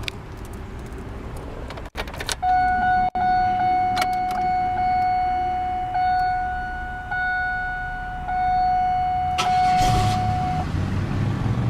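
Keys click in the ignition, then an electronic warning tone sounds steadily for about eight seconds. Near the end the 2002 Pontiac Grand Prix GT's 3.8 Series II V6 cranks, starts right up and settles into a low idle.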